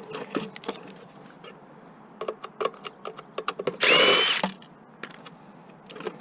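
Power drill running in one short burst of about half a second, about four seconds in, with a thin motor whine. Light clicks and taps of small parts being handled come before and after it.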